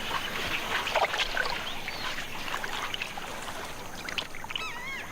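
River water splashing and lapping, with scattered small clicks and short chirps, and a warbling call a little before the end.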